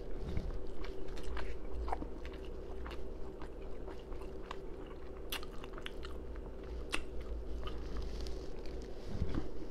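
A person chewing fried fish and shrimp fried rice close to a clip-on microphone, with open-mouthed smacking and crunching that comes as irregular clicks, several a second.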